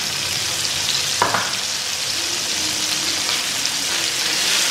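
Raw chicken pieces sizzling steadily in hot butter and olive oil in an enamelled pan as they sear. A wooden spatula pushes the pieces about near the end.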